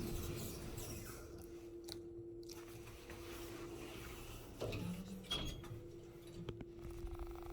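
Steady electrical hum inside a ThyssenKrupp elevator car, with a few short clicks and knocks about five seconds in, when the hum briefly drops out.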